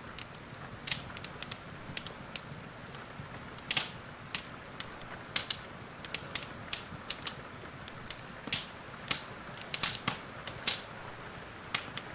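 Wood fire crackling in a fireplace: irregular sharp pops and snaps over a steady hiss of rain.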